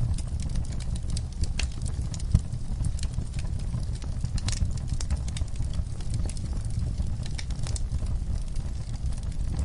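Wood fire burning in an outdoor fireplace, crackling with irregular sharp pops over a steady low rumble; one louder pop comes about two and a half seconds in.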